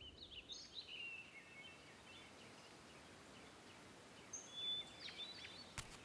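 Faint birds chirping and twittering in short calls, a forest ambience, with a sharp click near the end.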